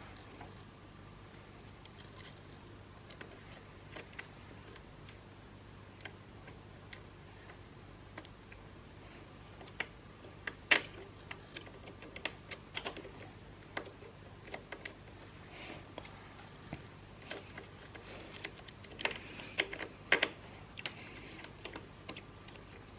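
Scattered sharp metallic clicks and clinks of a hand wrench on bolts as they are tightened down, sparse at first and coming thicker and louder about halfway through.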